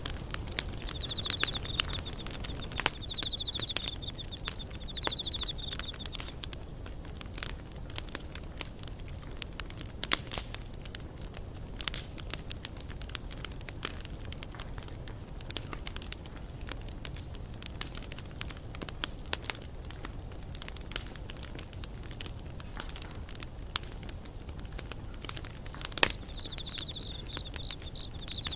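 Wood campfire crackling, with irregular sharp pops and a louder snap about three seconds in and another near the end. Insects trill at a steady high pitch for the first few seconds and again near the end.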